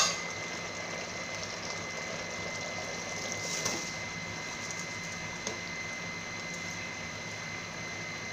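Green masala cooking in oil in a pot on high heat: a faint steady sizzle and bubble, with a sharp clink at the start and a short rustle about three and a half seconds in.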